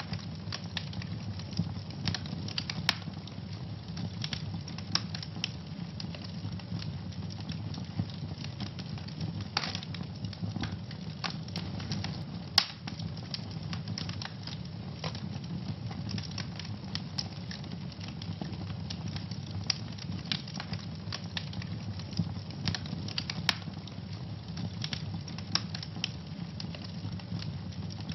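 Wood fire burning in a fireplace with a steady low roar of flames and frequent irregular crackles and pops, one sharper snap about halfway through.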